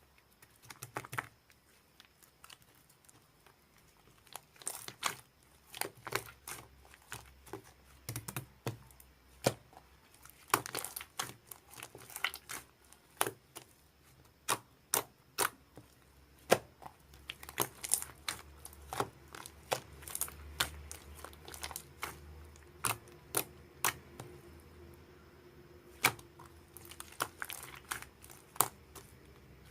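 Slime being squished and pressed by hand, giving irregular sharp clicking and crackling pops, at times several a second.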